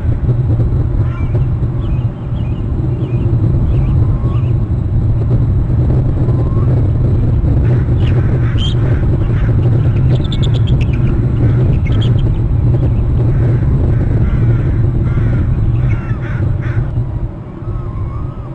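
Bald eagle calling from the nest, with a rapid run of high chittering notes about ten seconds in and scattered short bird calls around it, over a steady low rumble on the nest-cam microphone.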